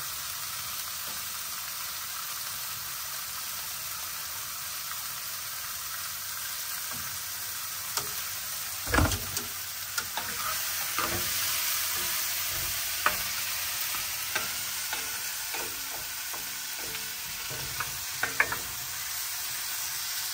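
Shrimp frying in bacon grease, a steady sizzling hiss, while grits are whisked in a pot. Scattered clicks and knocks of utensils against the cookware come in from about eight seconds in, the loudest a thump about nine seconds in.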